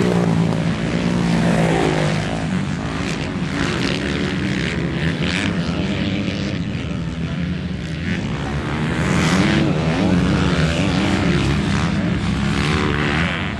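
Dirt bike engine running hard and revving up and down, the pitch rising and falling through the whole stretch.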